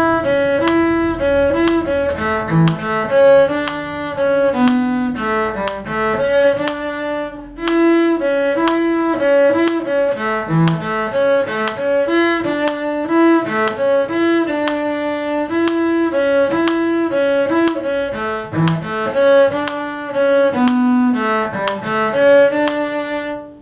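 Violin and cello playing a simple tune in six-eight time, in two parts: a melody over a lower bass line. There is a short break about seven and a half seconds in, and the music stops suddenly just before the end.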